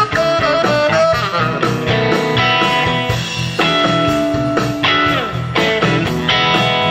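A band playing blues-style music, with guitar leading over a steady bass line.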